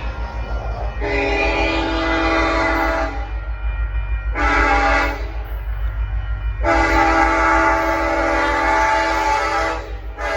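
Diesel locomotive's multi-chime air horn sounding a long blast, a short blast and a longer blast, with another starting near the end, in the pattern of a grade-crossing signal. Underneath runs the low rumble of the passing train.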